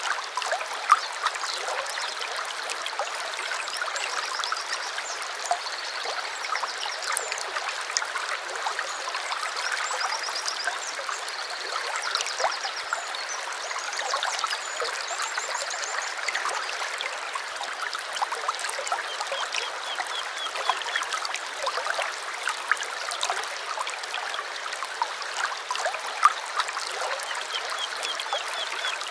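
A small stream babbling and trickling over stones, steady and unbroken. Birds give short, high trills of quickly repeated notes several times, a few of them close together in the first half and a couple more later.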